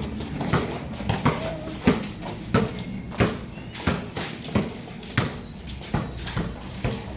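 A basketball dribbled on a hard court, bouncing in a steady rhythm about every two-thirds of a second, with fainter thuds in between.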